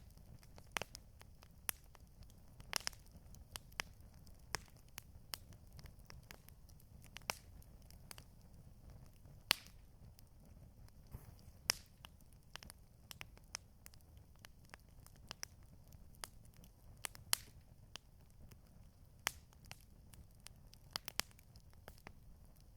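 Campfire crackling: irregular sharp pops and snaps, about two a second, some louder than others, over a low steady rumble.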